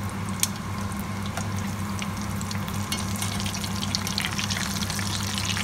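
Beef burger patties frying in hot oil in a pot, sizzling steadily with frequent small crackles and pops. A steady low hum runs underneath.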